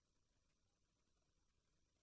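Near silence: only a faint steady hiss with thin high-pitched tones from the recording chain.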